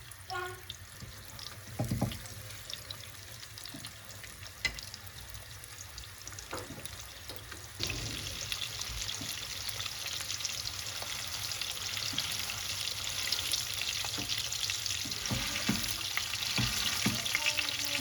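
A few scattered knocks, then from about eight seconds in a steady sizzle that slowly grows louder: food frying in a pan.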